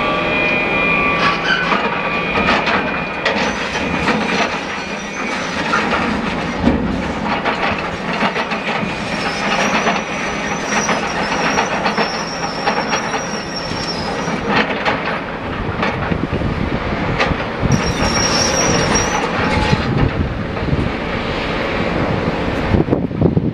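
Heavy machinery loading armour stone onto a ship: a dense, continuous mechanical clatter full of knocks, with a high metallic squeal that comes in twice in the middle of the stretch.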